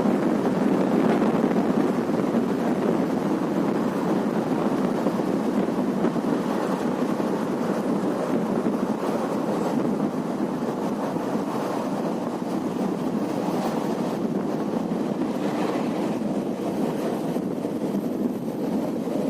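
Steady rushing rumble of the Varanasi Intercity Express passenger train running along the track, heard from on board, with wind noise on the microphone.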